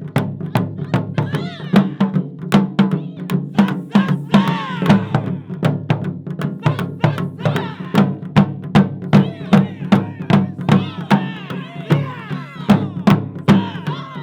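Taiko drum ensemble playing a fast, steady rhythm of sharp strikes, about four to five a second, with deep drum tones underneath and voices calling over the drums.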